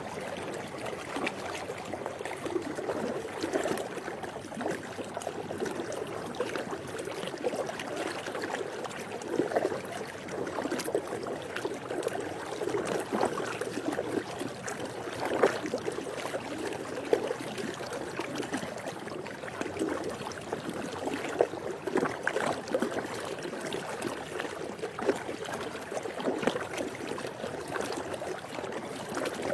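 Swimming pool water moving continuously, with many small irregular splashes throughout.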